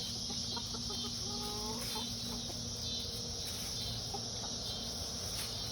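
Chickens clucking, with short soft calls mostly in the first couple of seconds, over a steady high-pitched drone.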